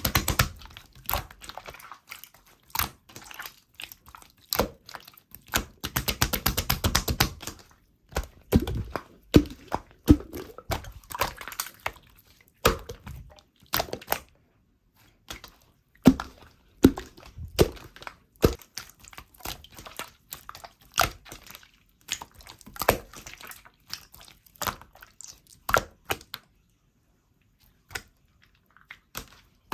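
Slime being pressed and played with by hand, giving a string of sharp clicks, pops and crackles. A fast rattle of clicks runs for a couple of seconds about six seconds in.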